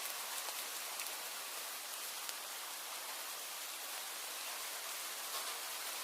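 Steady rain falling: an even hiss with a few separate drops ticking through it.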